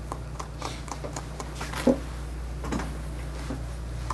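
Grooming shears snipping at a Shih Tzu puppy's matted coat: a string of small irregular clicks, with one louder snap about two seconds in, over a faint steady low hum.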